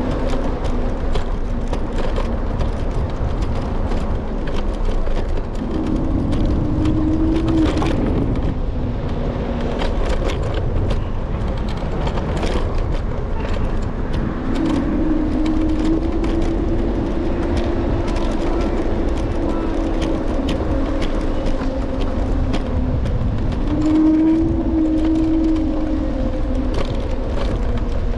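Electric scooter riding on city streets: steady wind and road rumble on the handlebar-mounted microphone, with frequent clicks and rattles from bumps. The motor's hum rises in pitch and holds three times as the scooter speeds up.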